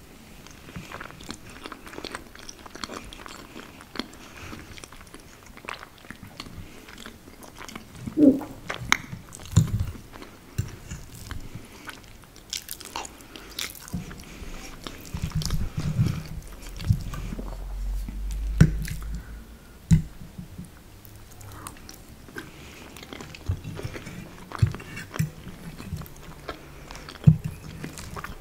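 Close-miked chewing and wet mouth sounds of eating soft lasagna, with sharp clicks now and then from a metal fork against the plate.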